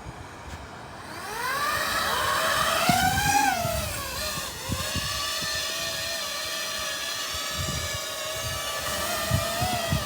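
FPV quadcopter's motors and propellers whining in flight, a test of how the new props sound. The whine rises in pitch about a second in, falls back around four seconds, then holds a steady pitch.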